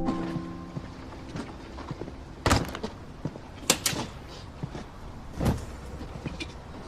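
Billiard balls clicking in a pool hall: scattered sharp clacks and knocks at irregular intervals, the loudest a few seconds in.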